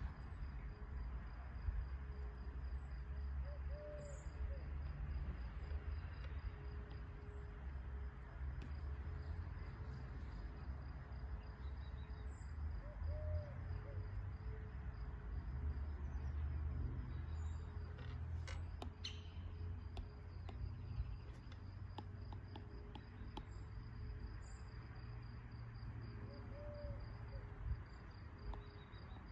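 Crickets chirping in a steady, fast pulsing trill over a low rumble of outdoor ambience. A short, low call sounds three times, spaced several seconds apart, and there are a few faint high chirps.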